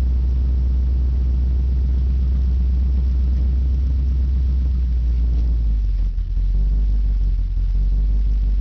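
Chevrolet 350 V8 on straight headers running under light throttle with a deep, steady rumble. About two-thirds of the way through, the note drops as the revs fall.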